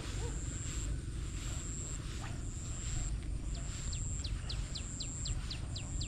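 Outdoor nature ambience: a steady low rumble under a high, thin buzz that comes in stretches of about a second. From about halfway through, a bird repeats a quick falling chirp about four times a second.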